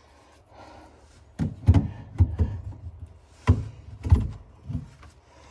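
Hollow knocks and clunks of plastic PVC sink drain fittings being handled and turned under a bathroom sink, about six sharp knocks starting about a second and a half in.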